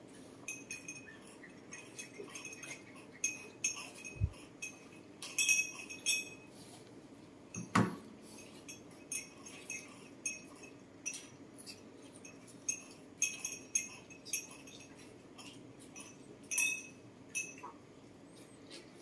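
Repeated light clinks and taps of tableware at irregular intervals, with one heavier knock about eight seconds in.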